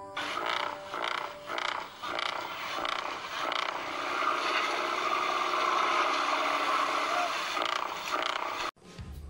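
Toy pop-pop (otok-otok) steam boat running, its engine putting: a few uneven knocks at first, then a steady noise that cuts off suddenly near the end.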